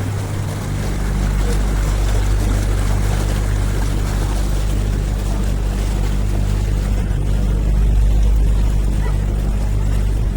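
A canal tour boat's motor running steadily: a low, even hum under a constant rush of water and air noise.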